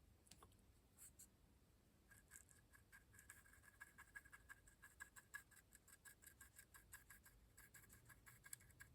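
Faint, quick scratchy strokes of a stiff brush scrubbing powder pigment onto the plastic body of a model locomotive, starting about two seconds in.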